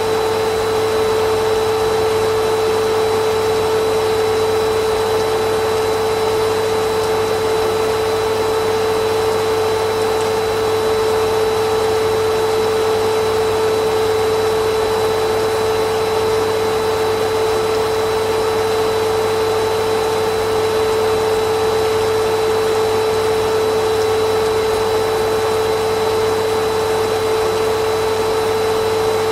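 Vacuum cleaner motor running steadily, a constant whine over rushing air with no change in pitch or level.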